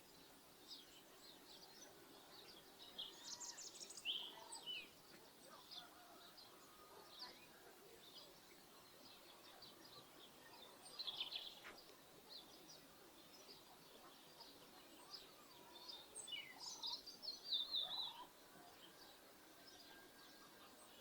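Small birds chirping and twittering in scattered high, quick calls over faint steady background noise, with busier flurries about 3 s in, about 11 s in and from about 16 to 18 s in.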